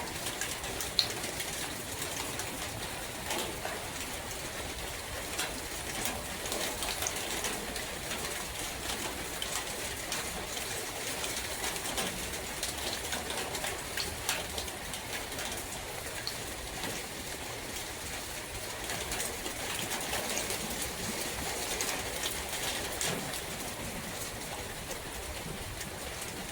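Steady rain falling in a forest, with many single drops ticking and one sharper tick about a second in, while birds call in the background.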